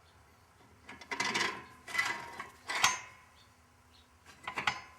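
Steel push bar being fitted onto a Ringmaster tire-ring pushing tool: several metal clanks and scrapes, the sharpest a ringing strike about three seconds in.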